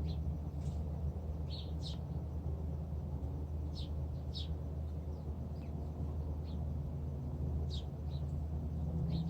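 Wrens chirping: short, high calls a few at a time, scattered through, over a steady low rumble.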